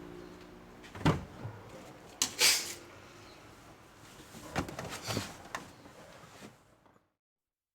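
A few light knocks and clicks of handling, one about a second in, a pair just after two seconds and a few more around five seconds, then dead silence.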